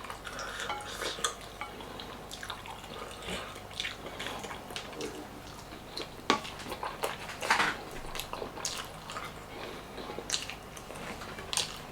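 Close-miked eating sounds: soft wet chewing and mouth smacks, with scattered short clicks and taps, a few sharper ones about halfway through.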